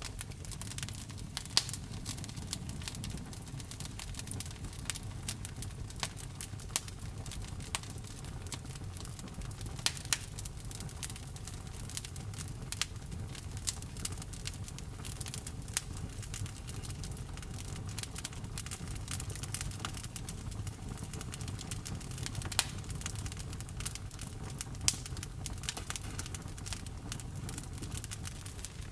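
Wood fire burning, crackling with frequent irregular sharp pops over a low steady rumble.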